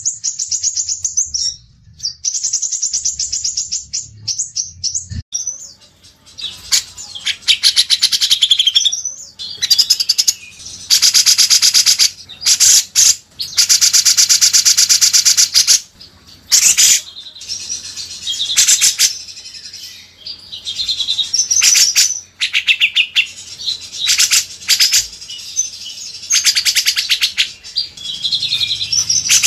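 Songbird song: rapid high-pitched trills at first, then, after a change about six seconds in, loud rapid-fire chattering bursts with short pauses between phrases.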